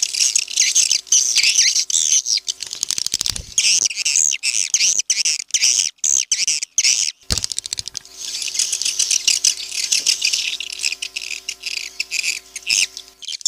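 A flock of swiftlets twittering in a dense, high-pitched chatter mixed with rapid dry clicks, a recorded swiftlet call sound of the kind played to lure swiftlets into a nesting house. From about three and a half to seven seconds in the twittering thins out and the clicks carry on nearly alone, then the chatter returns.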